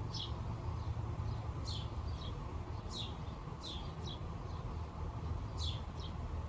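A bird chirping outdoors: short, high chirps that slide downward in pitch, repeated irregularly about eight times. Under them runs a steady low rumble.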